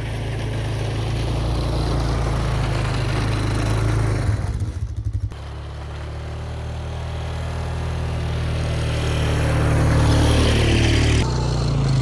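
A small engine of a snow-clearing machine running steadily. About four seconds in its sound wavers and drops for a moment, then it steadily grows louder again.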